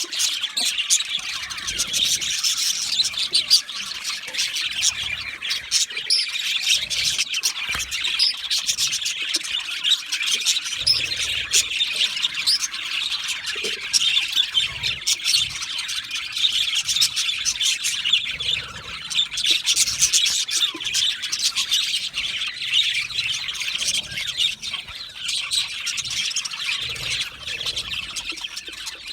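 A flock of budgerigars chirping, warbling and chattering continuously, many voices overlapping.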